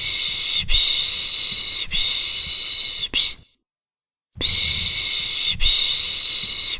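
A person shushing a baby: a rhythmic 'shh, shh, shh, sh', three long hissing shushes of about a second each and a short one, then a pause of about a second before the same pattern starts again.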